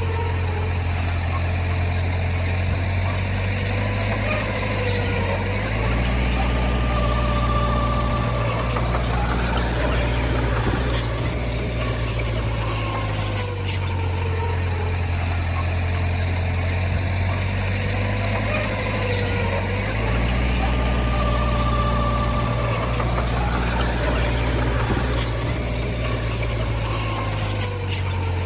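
Heavy diesel engine of earthmoving equipment running steadily, its low note stepping up twice.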